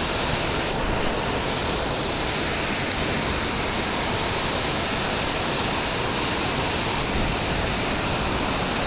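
Creek waterfall: a steady, unbroken rush of water pouring over the falls.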